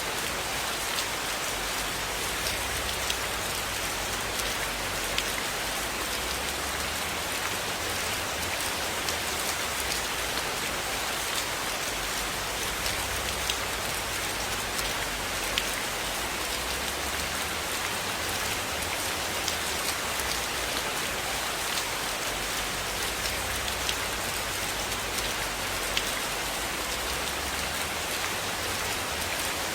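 Steady rain falling, an even hiss sprinkled with scattered sharp ticks.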